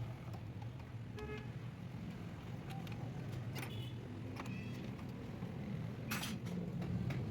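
A car engine idling steadily, with scattered light metallic clinks and taps of tools being handled.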